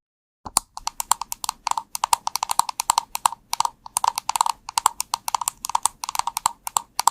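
Computer keyboard being typed on quickly, a fast run of key clicks several a second, starting about half a second in after a brief pause.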